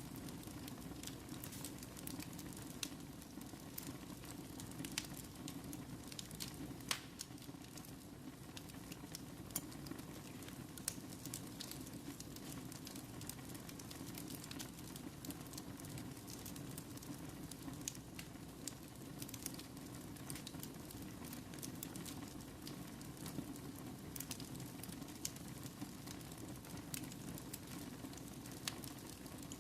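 Wood fire burning in a fireplace, crackling with frequent sharp pops over a steady hiss of the flames.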